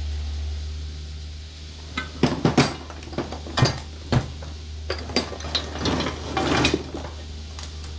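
Irregular metallic clinks and clanks of hand tools and mower parts being handled, starting about two seconds in, over a steady low hum.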